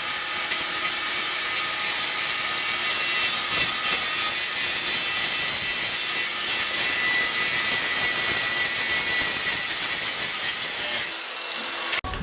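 A power saw or grinder cutting steadily, with a faint motor whine under a strong hiss; it starts suddenly and cuts off about eleven seconds in.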